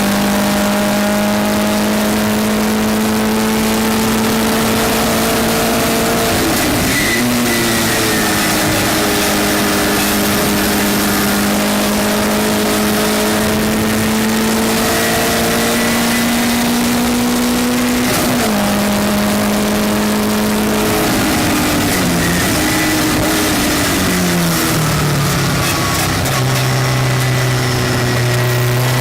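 Westfield race car's engine under power, its pitch climbing slowly on the straights and dropping sharply as the driver lifts about 7 and 18 seconds in. Later it steps down through several gears on the way into a corner and runs at lower revs near the end, over a constant rush of wind and road noise.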